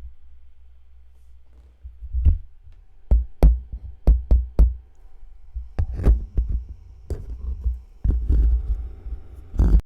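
A series of irregular heavy thumps and sharp knocks, some close together, with rustling between them; the sound cuts off suddenly near the end.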